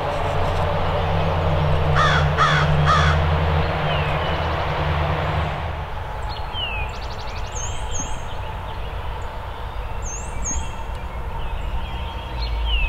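A bird gives three quick calls about two seconds in, over a low steady rumble that fades out near six seconds. After that, small songbirds sing high, repeated notes.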